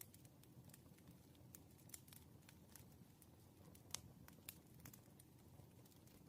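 Faint wood fire crackling: irregular sharp pops and snaps over a low steady rumble, with one louder pop about four seconds in.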